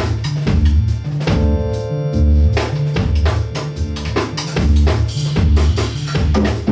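Live band playing an instrumental groove: drum kit keeping a steady beat with kick and snare under bass and held chords.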